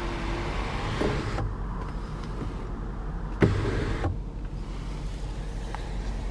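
Steady hum in a car's cabin, with a faint click about a second in and a sharper thump about three and a half seconds in.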